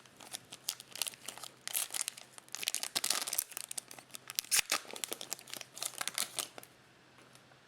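Trading-card pack wrapper crinkling and tearing open, a quick run of crackles lasting several seconds that stops shortly before the end.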